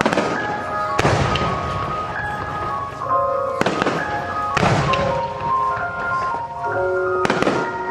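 Aerial firework shells bursting in the open air: several sharp bangs, each with an echoing tail, at irregular intervals over a melodic music soundtrack played with the show.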